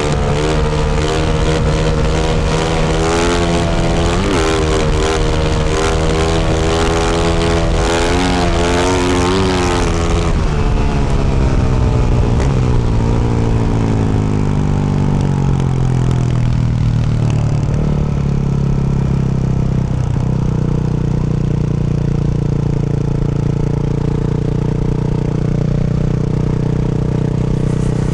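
Yamaha YZ450F single-cylinder four-stroke dirt bike with a Yoshimura RS-12 exhaust, heard close to the exhaust. For the first ten seconds it is ridden with the revs rising and falling under throttle. The engine then winds down over several seconds and settles into a steady low idle.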